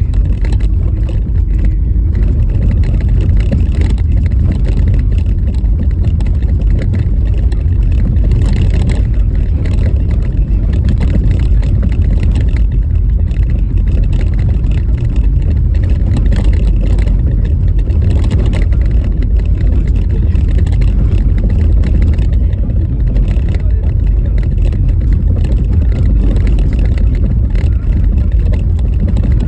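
Car driving on a rough, snow-covered road in a blizzard: a steady, loud low rumble of road and wind noise.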